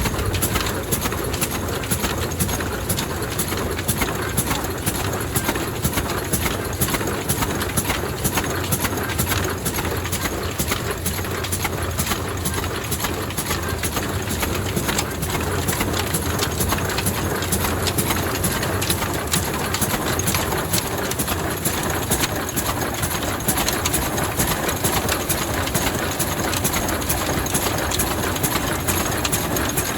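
Vintage 35 HP Ruston diesel stationary engine running steadily, with a continuous even clatter of rapid knocks over a low hum.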